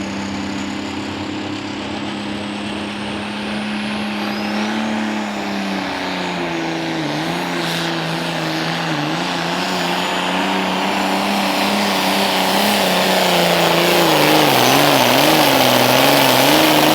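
Pulling tractor's diesel engine under full load dragging the sled, loud and getting louder. Its steady pitch drops about five seconds in and then wavers up and down as the engine lugs against the growing weight.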